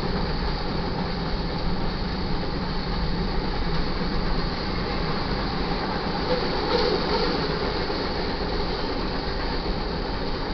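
Loaded freight cars (covered hoppers, tank cars, boxcars) rolling past: steady rumble and clatter of steel wheels on the rails, briefly louder about two-thirds of the way in.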